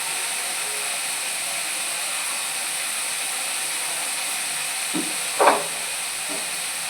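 Steady hiss of beans and potatoes cooking in the pot, with one short, sharp utensil sound about five and a half seconds in.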